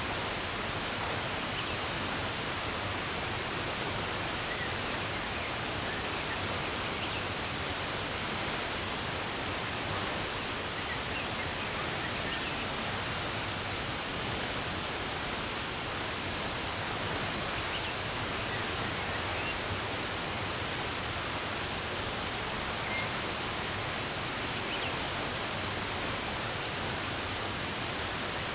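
Running water rushing steadily, with faint, scattered bird chirps above it now and then.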